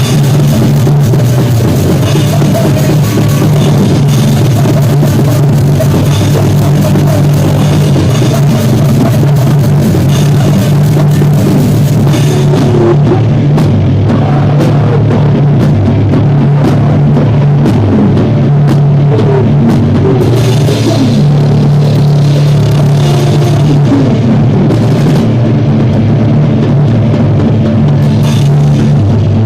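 A live rock band rehearsing, drum kit with cymbals and bass drum playing under bass and guitar, loud and distorted as if the microphone is overloaded.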